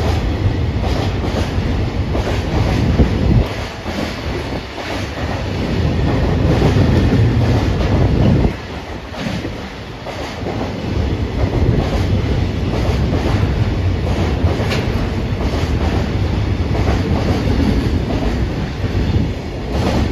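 Freight train's container wagons rolling past, wheels clattering over rail joints in a continuous run, with a brief dip in loudness about eight and a half seconds in.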